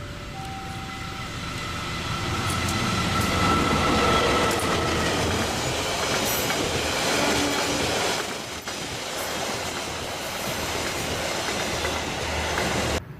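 Argo Wilis express train passing at speed, its wheels clattering over the rails in a loud rumble that builds over the first few seconds and holds. A steady high tone rides over it for the first five seconds. The sound cuts off abruptly near the end.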